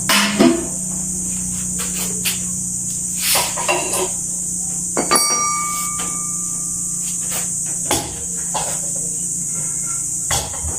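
Scattered knocks and clinks of hard objects being handled, with one ringing metallic ping about five seconds in, over a steady high hiss and low hum.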